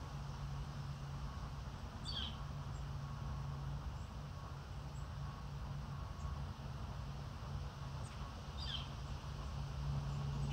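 Outdoor park ambience: a steady low background hum, with a bird giving two short chirps falling in pitch, about two seconds in and again near the end.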